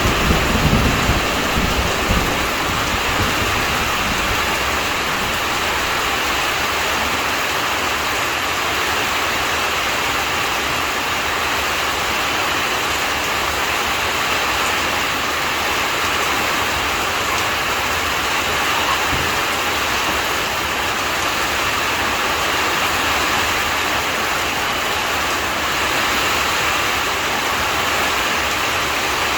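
Heavy rain falling steadily in a thunderstorm, an even hiss. A low thunder rumble dies away in the first second or so.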